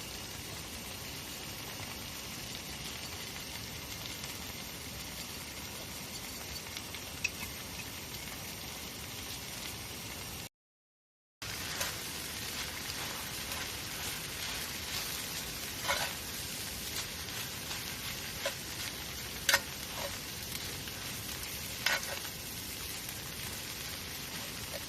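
Wood campfire burning with a steady hiss and crackle. The sound cuts out for about a second in the middle; after that, sharp pops from the burning wood stand out, three of them loudest.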